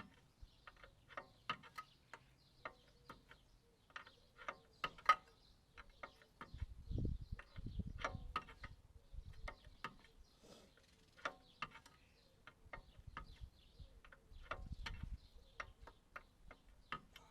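Hand tools working on a mini digger's track parts: sharp, irregular metallic clicks a few times a second, like a ratchet spanner turned in short strokes. Low rumbling handling noise twice, about seven and fifteen seconds in.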